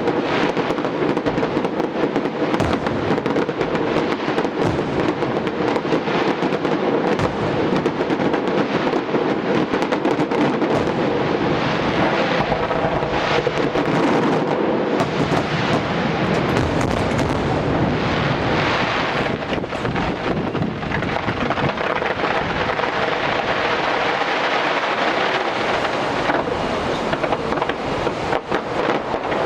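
Aerial fireworks display in a continuous barrage: many shell bursts and crackles overlapping into one unbroken, thunder-like rumble.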